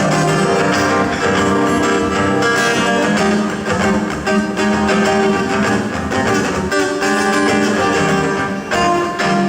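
Band music: an instrumental passage led by guitar, with no singing.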